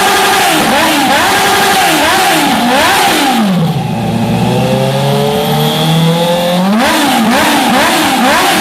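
Honda CBR650F inline-four engine free-revving through a full aftermarket exhaust system with its dB-killer baffle removed, in quick throttle blips about two a second. Partway through it falls back to a steady idle for about three seconds, then the rapid blipping starts again.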